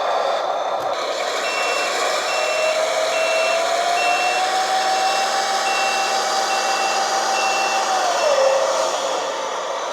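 The RC hydraulic Fendt 1050 model tractor's sound module plays a reversing alarm: short, even, single-pitch beeps, about one and a half a second, starting a second or so in and stopping near the end. Underneath runs the model's steady running hum, which rises a little in pitch early on and drops back as the beeping stops.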